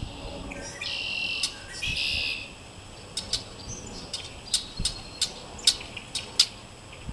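Red-winged blackbirds calling: a buzzy call about a second in, then a string of short, sharp call notes, roughly one or two a second.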